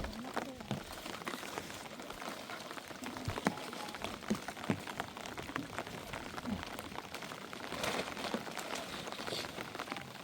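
Rain falling steadily, heard as an even hiss dotted with many small sharp drop hits.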